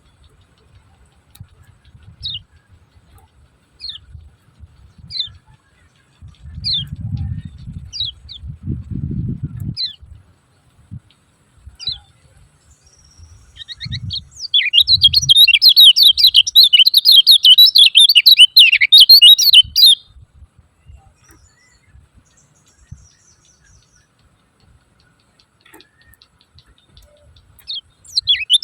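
Kecial kuning white-eye giving 'ciak ciak' calls. At first there are single short falling chirps about once a second, then about halfway through a loud, rapid chattering burst that lasts some six seconds. The chattering starts again near the end. A few low thumps come in the first half.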